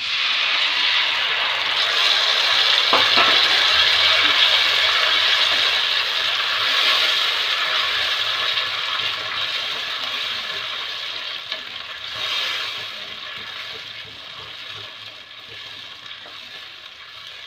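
Tomato purée sizzling hard as it hits hot oil with fried onion, ginger and garlic in a steel kadai, stirred with a wooden spatula. The sizzle is loudest in the first several seconds and slowly dies down, with a single knock about three seconds in.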